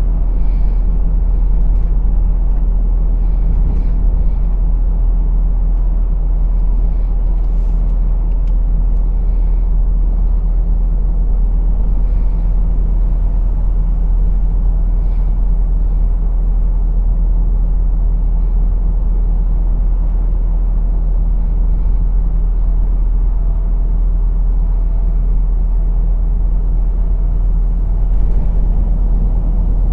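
A lorry's diesel engine and road noise heard from inside the cab while driving: a steady low drone that holds level throughout.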